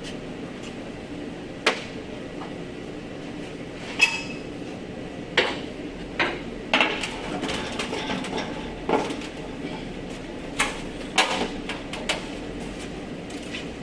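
Irregular metallic clanks and knocks of hand tools and removed body parts being handled during panel disassembly, about ten over the span. One sharper hit about four seconds in rings briefly, over a steady low workshop hum.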